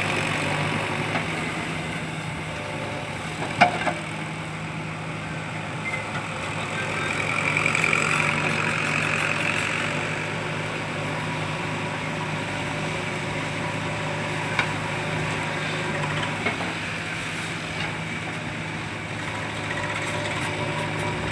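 Diesel engines of a JCB backhoe loader and a tractor running steadily during soil loading. The sound swells for a few seconds about a third of the way in, and there is a single sharp clank about three and a half seconds in.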